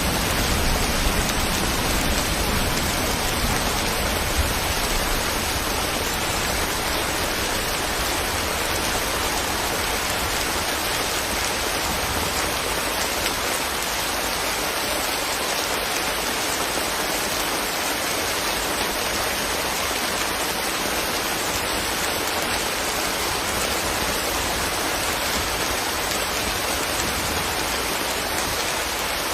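Steady rain falling, an even hiss. A low rumble under it in the first few seconds fades away.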